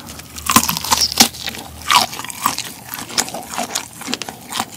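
Chewing a mouthful of cooked black tiger shrimp tail meat, with many small wet clicks and crunches of mouth sounds.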